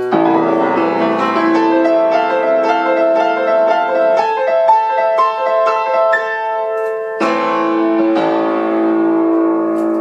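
Solo piano playing a simple classical-style melody over a moving accompaniment, then two loud chords about seven and eight seconds in that are held and left to ring.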